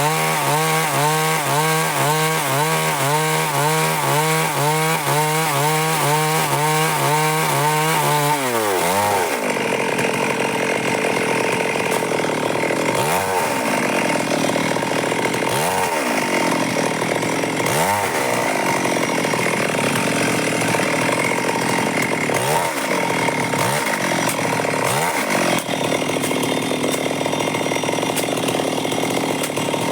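Stihl MS 382 two-stroke chainsaw running loud and cutting wood. For the first several seconds its pitch wavers in an even rhythm. About 9 seconds in the pitch drops, and after that the engine speed dips briefly and recovers several times as the chain loads in the cut.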